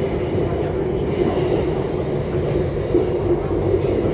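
MTR West Rail Line IKK electric train running steadily, a continuous rumble of wheels on rail and running gear.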